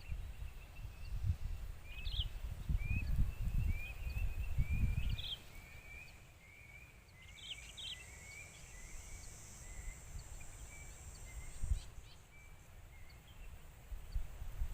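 Small birds chirping: a long series of short, rising chirps with a few higher notes mixed in. A steady high buzz joins for about four seconds in the middle, and a low rumble is the loudest sound through the first five seconds.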